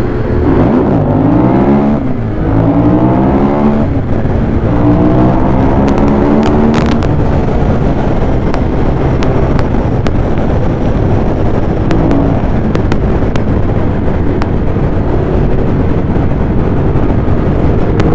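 Ducati Monster 821's 821 cc L-twin engine on its stock exhaust, accelerating hard through the gears: its pitch climbs, dips briefly at each upshift and climbs again during the first several seconds. After that, loud wind noise on the rider's microphone at speed mostly covers the engine.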